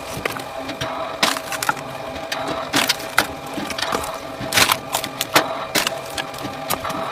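An engine-driven wood-processing machine runs steadily while wood cracks and splinters under it, with repeated sharp irregular cracks over the hum.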